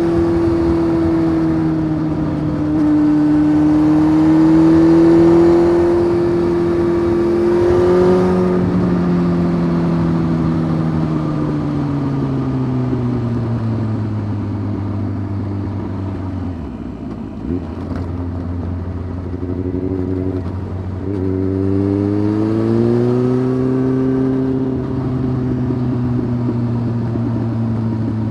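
Honda CBF 600's inline-four engine, heard through a titanium sport exhaust while riding. It holds a steady pitch for about eight seconds, winds down as the throttle is rolled off, and picks up again a little past the middle after a brief break, then eases off.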